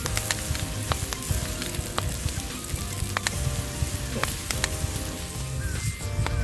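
Thick steak sizzling on a hot iron griddle over a campfire, a steady frying hiss with sharp pops and spits scattered throughout. Faint background music runs underneath.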